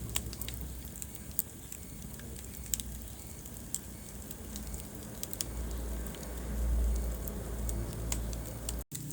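Wood fire crackling in a fireplace: sharp, irregular pops and snaps over a low, steady rumble, with a momentary dropout to silence near the end.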